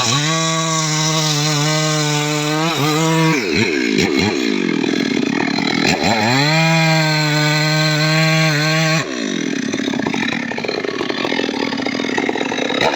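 Homemade chainsaw revved to high speed and held for a few seconds, dropping back at about three seconds, then revved and held again. About nine seconds in, the engine speed drops sharply and it runs rougher and a little quieter.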